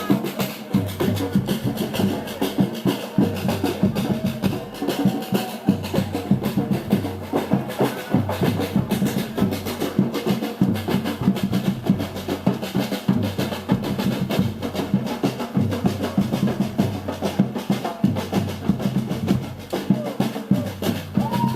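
Samba street-carnival drum group playing: drums and snare drums beating a dense, steady rhythm.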